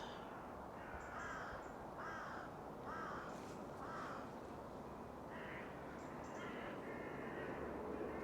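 Birds calling: a series of short, repeated calls, about one a second, faint over quiet background ambience.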